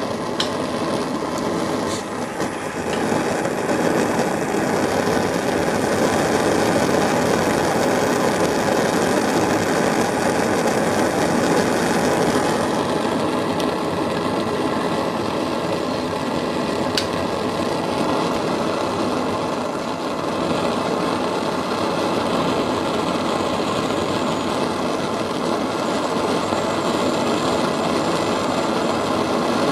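Homemade methylated-spirit Supa Burner burning flat out with a steady jet sound.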